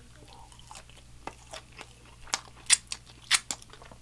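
Close-miked chewing of a mouthful of crispy Nashville hot fried chicken, the breading crunching in sharp bites, loudest in a few crunches in the second half.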